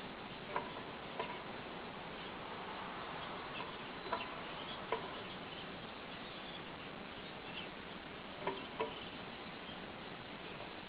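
Pet canaries making a few short, sharp chirps or clicks, about six scattered through, over a steady hiss.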